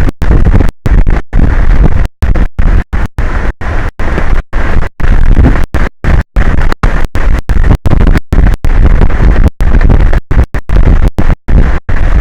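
Loud, rough wind noise on an outdoor camera microphone, heaviest in the low rumble. The audio cuts out abruptly many times, every fraction of a second, so it comes in choppy, broken bursts.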